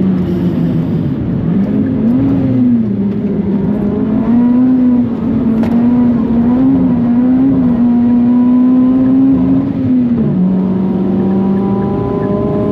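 Big-turbo Mitsubishi Colt R's four-cylinder engine running hard under load, its pitch holding high with small rises and dips, then dropping about ten seconds in.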